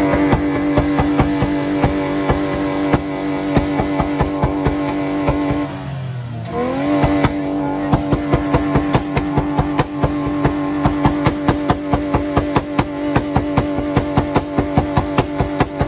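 A modified car's engine held at high revs against the rev limiter, stuttering with sharp cuts about four to five times a second. About six seconds in, the revs drop away and climb straight back up to the limiter.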